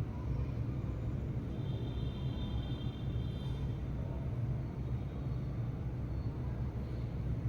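Steady low outdoor rumble, like distant traffic. About a second and a half in, a faint high, even tone is held for nearly two seconds.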